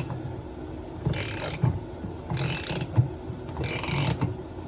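Hand ratchet clicking in three bursts of strokes, about 1.2 s apart, as it slowly draws a tight compression ring off a toilet supply pipe.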